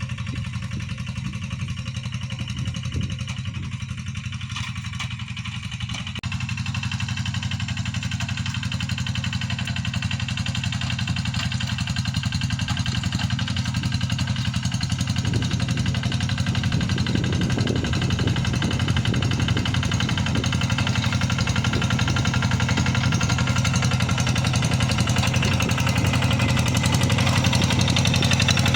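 Tractor engine running steadily with a fast chugging beat as it plows a wet rice paddy, growing louder and fuller partway through.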